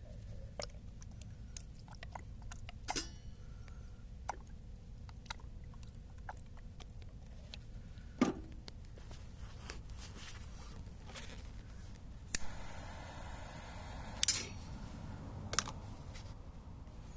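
Small wood campfire crackling, with scattered sharp pops and snaps over a low steady rumble. About twelve seconds in, a louder rustling noise lasts about two seconds.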